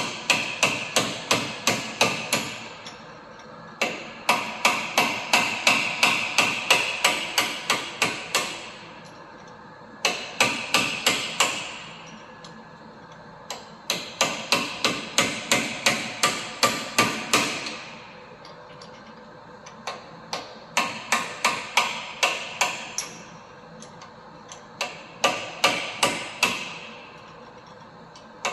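Hammer knocking on a rust-seized CV axle nut: rapid runs of metal-on-metal blows, about four a second, with a short ringing after each, repeated six times with brief pauses, to break the rust lock on the threads.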